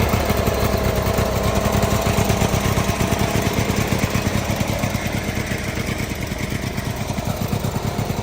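Murray garden tractor's engine running steadily with a rapid even beat, easing slightly about halfway through.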